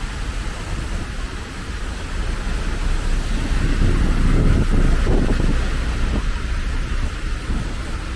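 Street noise in the rain: a steady low rumble and hiss with wind buffeting the microphone, growing louder for a couple of seconds in the middle.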